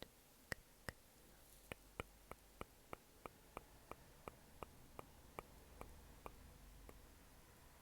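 Faint, sharp clicks of the 'coconut rain' ASMR trigger in a steady run, about three a second, over soft room hiss.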